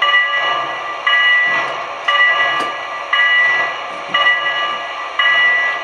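Model train locomotive's sound-system bell ringing steadily, six strokes about a second apart, each struck sharply and fading.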